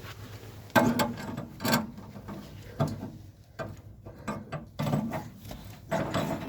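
Hand tools working on a water heater's pipe fittings: a string of separate metallic knocks and clicks, with three louder ones in the first three seconds and smaller clicks after.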